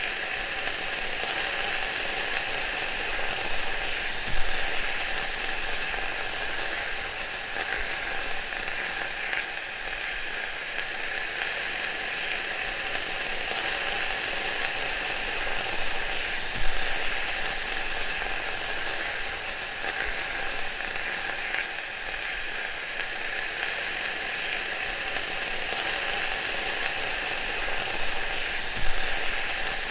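Food frying: a steady sizzle with scattered crackles, and three louder pops about twelve seconds apart.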